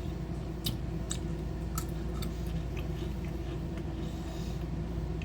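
A person chewing Pringles everything bagel potato crisps, with several short, sharp crunches in the first half and quieter chewing after.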